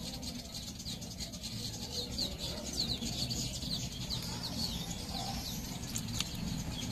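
Small birds chirping in quick runs of short, falling notes over a low steady background rumble, with one sharp click about six seconds in.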